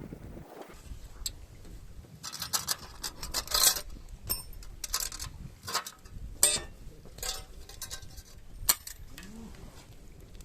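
Irregular sharp clicks and light clatter, some with a brief ring, coming in uneven clusters over several seconds.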